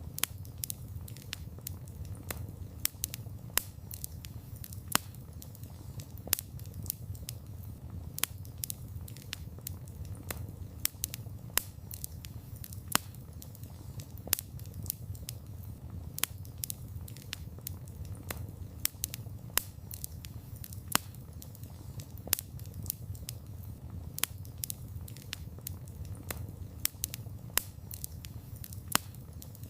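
Wood fire burning with irregular sharp crackles and pops, several a second, over a steady low rumble of flames.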